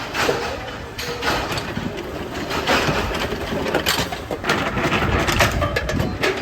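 Metalworking shop machinery clanking and clattering: a busy run of irregular knocks and clicks over a steady low rumble, getting busier from about a second and a half in.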